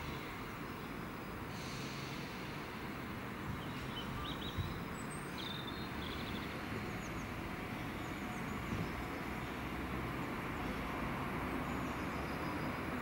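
Class 321 electric multiple unit pulling away from a station platform: a steady low rumble and hum from its traction equipment and wheels. A few short bird chirps sound above it partway through.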